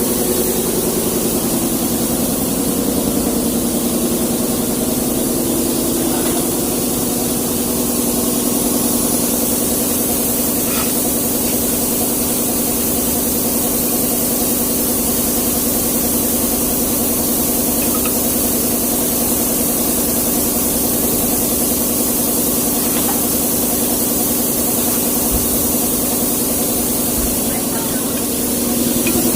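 Hino truck diesel engine idling steadily, with a constant hiss over it.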